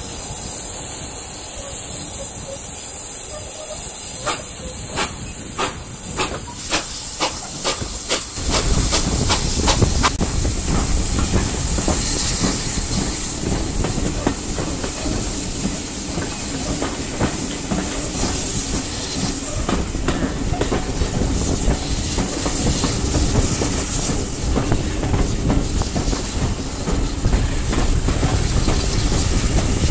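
Passenger coach of a steam-hauled heritage train running along, heard from an open carriage window. At first a few evenly spaced wheel clicks over rail joints; about eight seconds in, a loud steady noise of wind and running gear starts and the wheel clicks go on through it.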